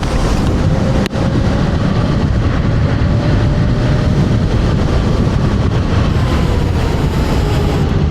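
Wind buffeting the microphone at riding speed on a TRBK M2 electric scooter, with a faint electric motor whine that slowly drops in pitch in the second half. The sound dips out briefly about a second in.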